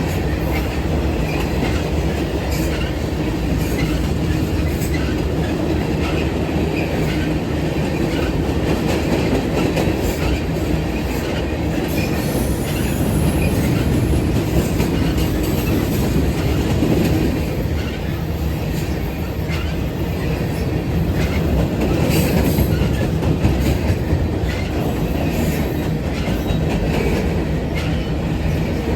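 A train rolling past at close range: a steady heavy rumble of wheels on rail, with rhythmic clacking over the rail joints and brief high wheel squeals now and then.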